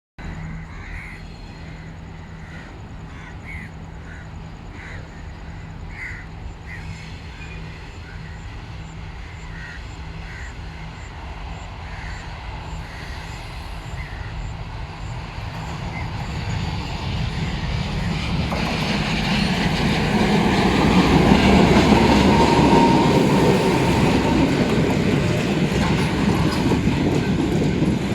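Train rumbling along the track, growing steadily louder through the second half as it comes close, with a brief high squeal at its loudest.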